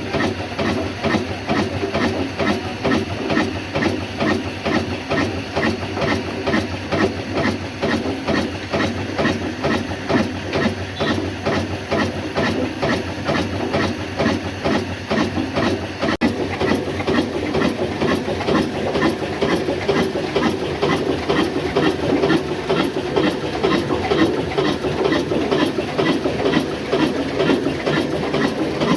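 Old black diesel engine running steadily under load, driving a flour mill, with an even, slow beat of about three exhaust knocks a second over the hum of the machinery.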